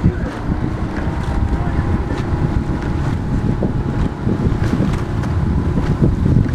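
Wind buffeting the microphone over open water during a rowing race, a steady low rumble with scattered small knocks and splashes.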